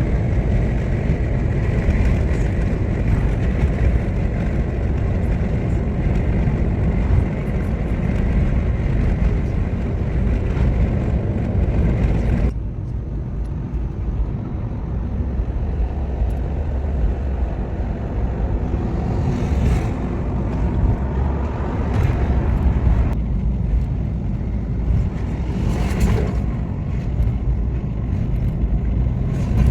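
Car driving: steady engine and road noise, with a sudden change in tone about twelve seconds in.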